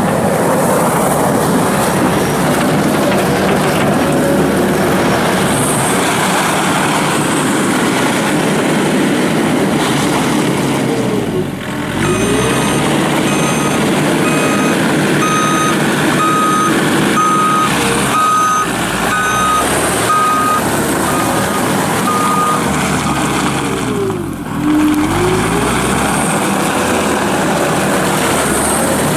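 Case SR220 skid steer loader's diesel engine running hard while the machine works, its speed dipping and recovering twice: a little before halfway and again a few seconds before the end. For about ten seconds in the middle, the backup alarm beeps about once a second as the loader reverses.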